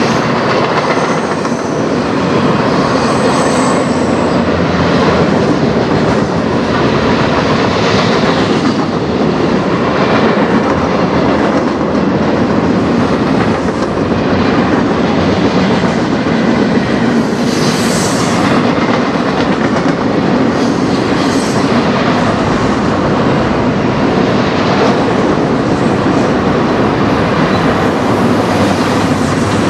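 Cars of a mixed freight train (centerbeam flatcars, gondolas, autoracks) rolling past: a steady, loud rumble of steel wheels on rail with repeated clacks as the wheels cross the rail joints.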